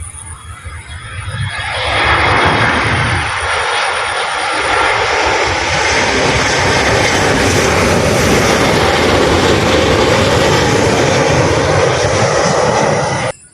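Airliner landing close by, its engine noise swelling about two seconds in and holding loud and steady, then cutting off suddenly near the end.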